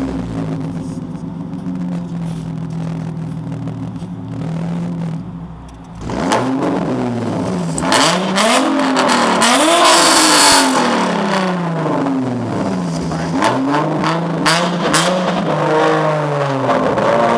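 Modified 2007 Nissan 350Z V6 exhaust, with resonated test pipes, Magnaflow Y-pipe and Magnaflow tips: the engine idles steadily for about six seconds. It is then revved several times, the pitch rising and falling with each blip, one longer rev in the middle, before it drops back to idle near the end.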